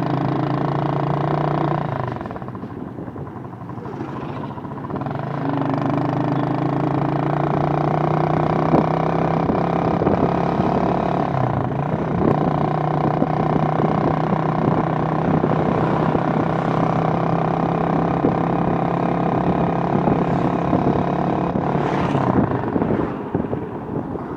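Motorcycle engine running as the bike is ridden along. It eases off about two seconds in, picks up again with rising revs a few seconds later, then holds steady.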